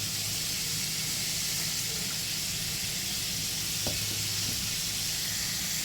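Chicken frying in hot oil: a steady, even sizzle.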